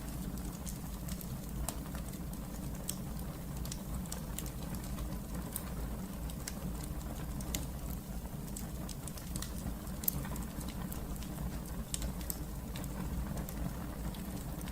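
Wood fire crackling in a fireplace: frequent irregular sharp pops and snaps over a steady low rumble of burning, with one louder pop about ten seconds in.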